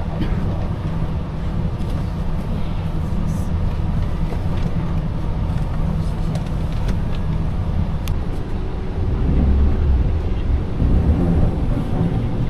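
Passenger train running: a steady low rumble with a faint hum and scattered light clicks, growing a little heavier about nine seconds in.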